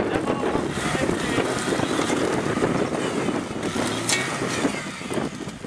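Engine of an off-road 4x4 revving hard and continuously under load while the tilted vehicle fights its way through a deep muddy ditch.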